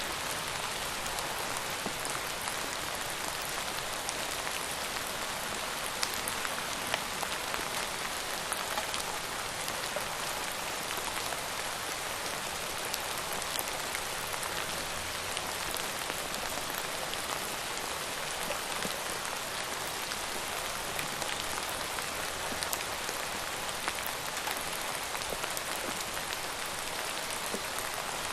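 Steady rain falling on a surface, a dense even patter with individual drops ticking through it.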